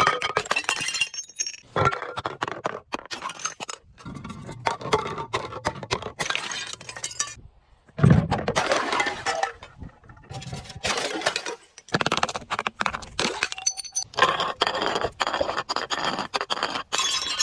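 Glass being crushed and broken: dense runs of crunching and clinking shards, stopping briefly twice, with a heavy crunch about eight seconds in.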